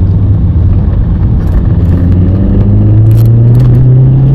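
Car engine and road noise heard inside the cabin, a steady low hum whose pitch rises slowly from about a second and a half in as the car gathers speed.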